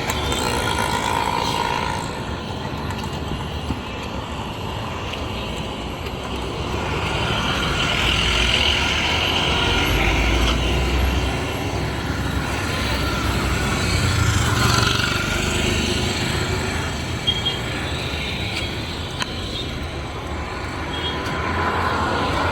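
Street traffic: motor vehicles passing one after another, the noise swelling and fading, with heavier low rumbles about eight to eleven seconds in and again around fourteen seconds.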